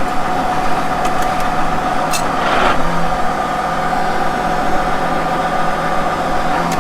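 Farm tractor engine running steadily, with a steady whine over it; the sound swells briefly about two seconds in.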